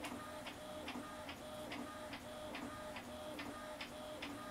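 A printer printing: faint regular clicks, about two and a half a second, with a short whirring tone between each.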